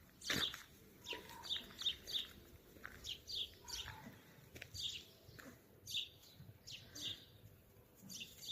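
Small birds chirping: quiet, short chirps that each drop in pitch, repeated on and off with brief gaps.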